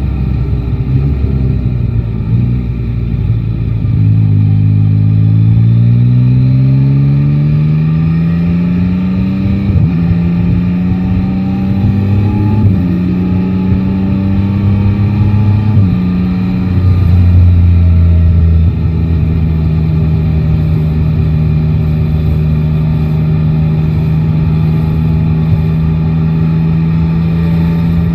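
A Yamaha Tracer 9 GT's three-cylinder engine, heard from the rider's seat. It runs low at first, then the engine note rises as the bike accelerates, and it shifts up about ten, thirteen and sixteen seconds in. In the last third it settles into a steady cruise.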